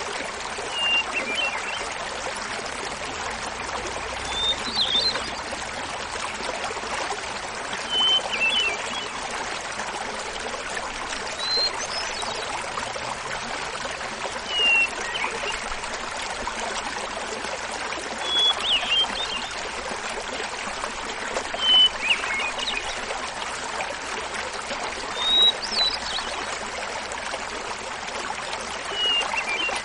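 Hermit thrush singing, about nine short phrases three to four seconds apart, each a held whistled note breaking into a flutter, at shifting pitches. Under it, the steady rush of a small mountain waterfall.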